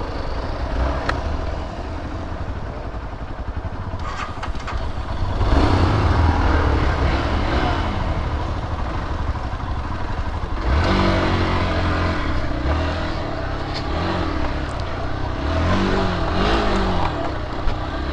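Off-road motorcycle engine revving up and down as the bike is ridden over a dirt track, with surges of throttle about five seconds in and again about eleven seconds in, and some clatter from the bike.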